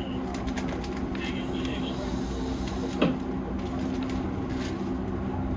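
Keihan electric train moving off slowly, heard from inside the driver's cab: a steady hum with running noise, and one sharp clack about three seconds in.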